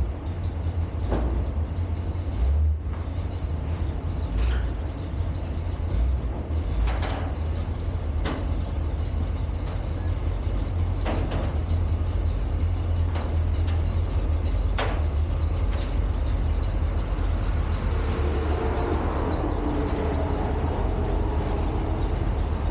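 A vehicle running with a steady low rumble, with scattered short clicks and rattles.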